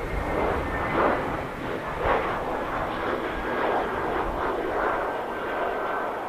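Airliner's engines running loud: a rough, crackling noise that swells and fades about once a second, with a faint high whine sliding slowly down in pitch.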